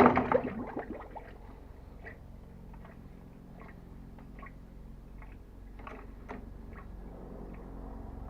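A Veterok-12 two-stroke outboard motor being pull-started on its first start after winter: a loud pull that dies away within a second without the engine catching, then faint clicks and knocks over a low hum.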